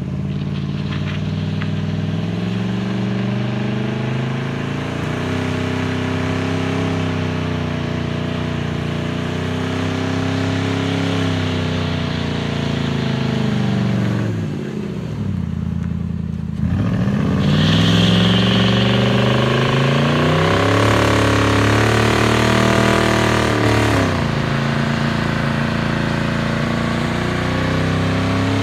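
2000 Lincoln LS's 3.9-litre V8 held at high revs during a burnout, the revs rising and falling, with the rear tyres spinning on the pavement. About fourteen seconds in the revs drop away. They climb back up louder a couple of seconds later, with a short high tyre screech.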